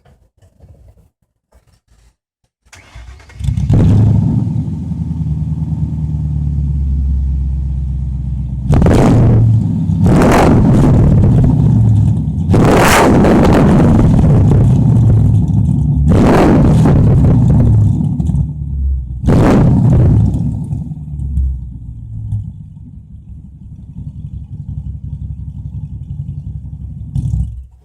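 Ford Mustang 5.0 V8 on straight pipes with the catalytic converters deleted, starting up about three seconds in and settling into a loud idle. It is revved several times, one rev held longer in the middle, then idles again and is switched off near the end.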